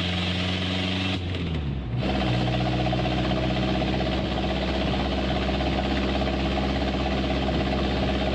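Muffler-deleted twin-turbo 4.5-litre V8 of a 2006 Porsche Cayenne Turbo running under way, heard from inside the car. The engine note drops in pitch about a second in as the automatic transmission shifts gear, then holds steady.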